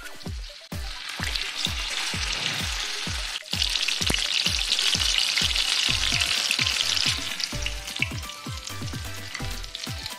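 Batter-coated banana pieces sizzling as they deep-fry in hot oil, loudest from about three and a half to seven seconds in. Background music with a steady beat of about two thumps a second runs underneath.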